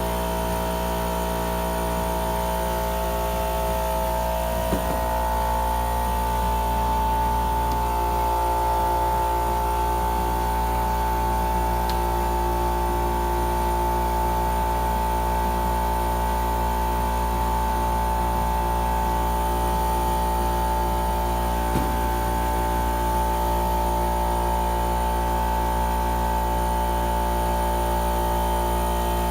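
A motor-driven machine running with a steady hum and a constant whining tone, with a couple of faint clicks.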